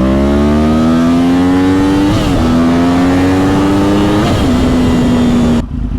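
2010 Yamaha R1's crossplane inline-four, through a Yoshimura exhaust, accelerating hard with a rising note. It shifts up twice, about two and four seconds in, then holds a steady note before the throttle is rolled off near the end.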